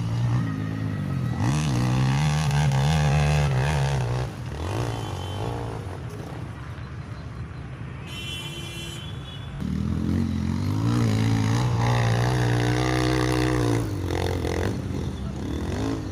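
Motocross dirt bike engines revving, pitch rising and falling, in two long loud bursts: one over the first four seconds and another from about ten to fourteen seconds in, with the engine sound quieter in between.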